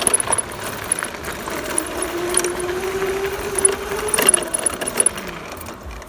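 Small dirt bike running on the road, its motor note climbing slowly and then dropping away about four seconds in, over constant rattling and clinking of loose parts.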